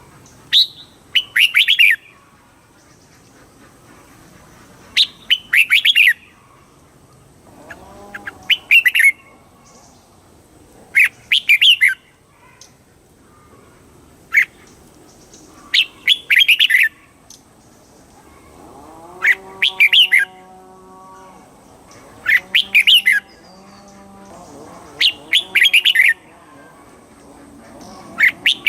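Red-whiskered bulbul singing short, bubbling song phrases of quick pitch-bending notes, repeated every two to three seconds. A lower, steady-pitched sound runs beneath the song for several seconds about two-thirds of the way through.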